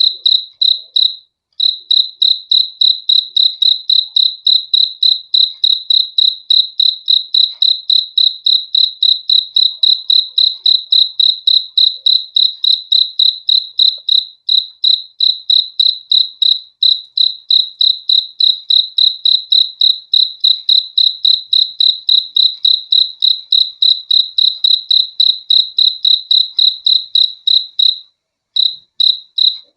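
Cricket chirping in a steady, even rhythm of high chirps, about three a second. There are brief pauses about a second in and again near the end.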